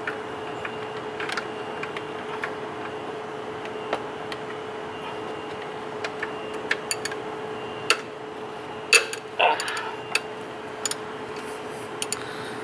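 Scattered metallic clicks and taps of a spanner working on the belt tensioner bolt, a few in quick succession about halfway through and the loudest near three quarters of the way, over a steady faint hum.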